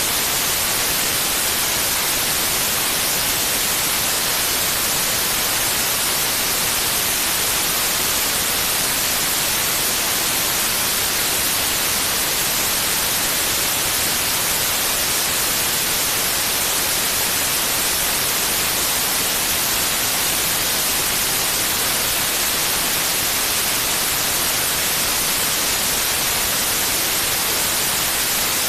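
Steady white noise: an even, unchanging hiss, bright and strongest in the highs, played as a sleep sound for babies.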